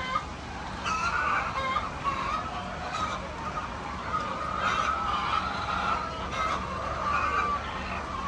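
A flock of chickens calling over one another in wavering, overlapping cackles and squawks, with a steady low hum underneath.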